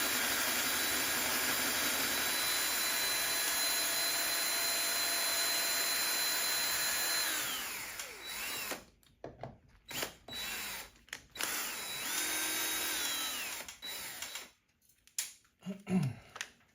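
Power drill running steadily at full speed for about seven seconds, then spinning down, followed by several short trigger bursts that rise and fall in pitch and a few knocks near the end.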